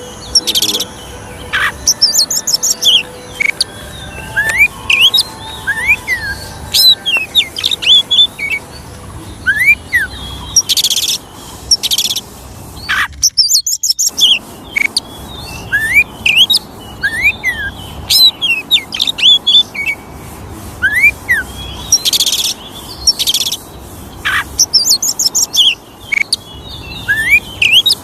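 Oriental magpie-robin (kacer) singing a fast, varied song of short rising and falling whistles, high trills and harsh rasping notes. The sound cuts out completely for about a second halfway through.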